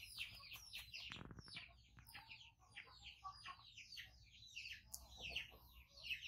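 Faint, continuous chirping of small birds: many short, high-pitched, falling chirps several times a second.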